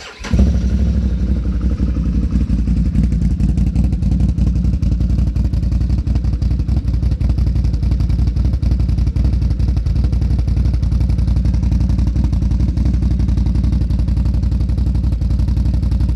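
Can-Am Outlander 1000's Rotax V-twin engine, fitted with a Trinity aftermarket exhaust and programmer, comes in suddenly at the start and then idles steadily with an even pulsing exhaust note.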